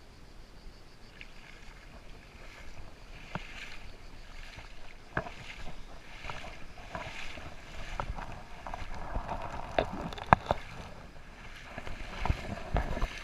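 Creek water gurgling and splashing, growing louder after the first couple of seconds, with several sharp knocks scattered through, the loudest about ten seconds in.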